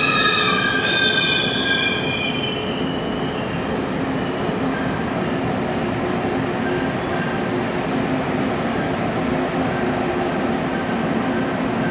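Passenger train moving past an underground station platform. A high, wavering wheel squeal in the first two or three seconds fades into a steady rumble of wheels on rail, with a thin steady high whine over it.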